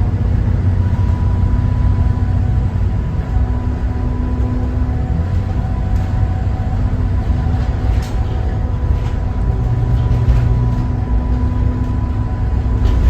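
School bus ride with the Cummins ISB 6.7 inline-six turbo diesel of a Thomas Saf-T-Liner C2 running steadily under deep road rumble, a faint steady whine and a few brief rattles.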